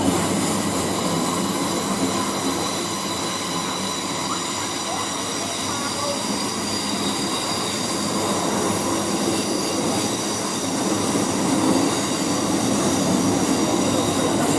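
Electric passenger train moving along the platform: a steady rumble of wheels on rail with high, level squealing tones held over it.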